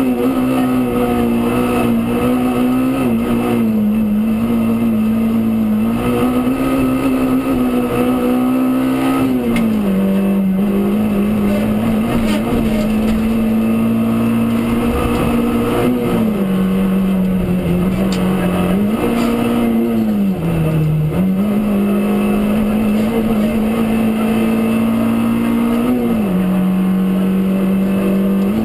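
Rally car engine running hard at high revs under load. Its pitch drops and climbs again several times at gear changes and lifts off the throttle.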